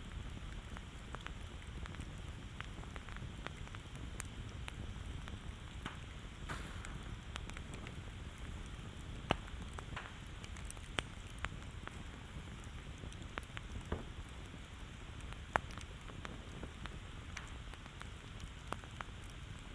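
Wood campfire burning: a steady low rumble with frequent small crackles, and a few louder sharp pops in the second half.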